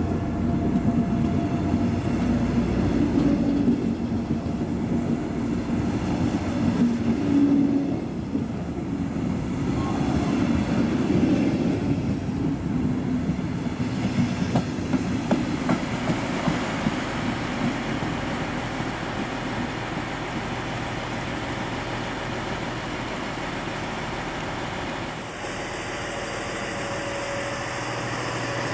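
Double-deck regional train moving out along the platform, its coaches rumbling and wheels clacking over rail joints. The rumble is loudest in the first half and eases as the train draws away. Near the end the sound switches abruptly to a steadier hiss and hum.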